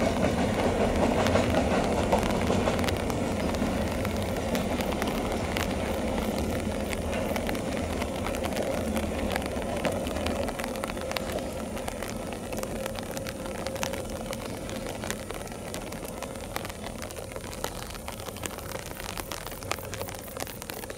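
Freight train's open wagons rolling away on the rails, a continuous rumble that fades steadily as the last wagon recedes.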